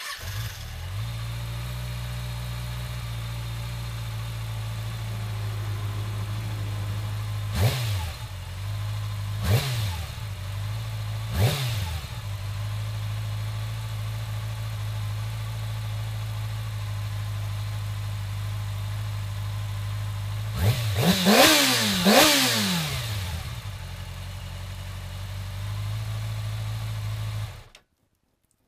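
A 2011 Kawasaki Ninja ZX-6R's inline-four engine idling. It is revved in three short blips about two seconds apart, then two harder blips back to back later on, each settling back to idle.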